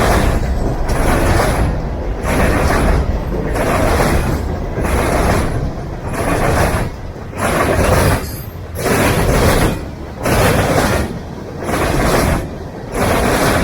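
A freight train's cars rolling past, the rumble and rail noise swelling and dipping in a regular rhythm of about one car every one and a half seconds.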